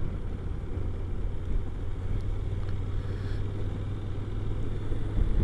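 Honda NC750X motorcycle's parallel-twin engine running steadily while riding, with wind rumbling on the microphone.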